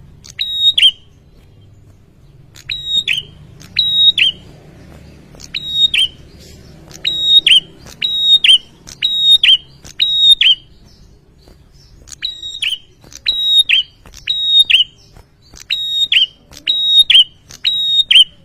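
Prinia (prenjak) calling over and over: loud, sharp, high notes in quick runs of two to four, each ending in a short downward slur, with short gaps between runs and a brief pause about eleven seconds in.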